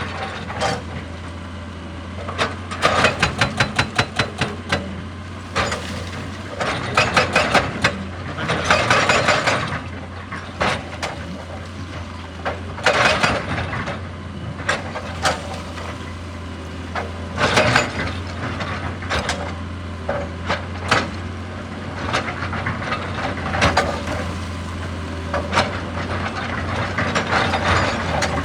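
Excavator's diesel engine running steadily, with repeated bursts of rapid hammer blows, several a second, from a hydraulic breaker hammering rock.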